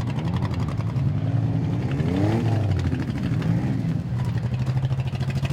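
Demolition derby car engines idling, with one revving up and back down about two seconds in.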